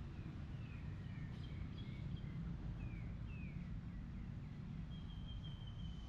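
Small birds chirping in the trees: a run of short, falling chirps through the first half, then a steady high trill near the end, over a constant low background rumble.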